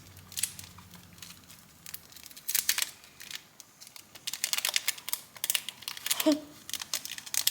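A small packet of powder being crinkled and torn open by hand, in irregular bursts of crackling with pauses between.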